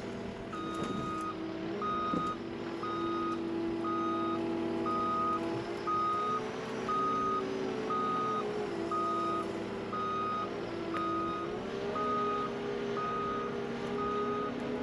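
Vehicle backup alarm beeping about once a second over the steady running of its engine, which picks up a little twice along the way.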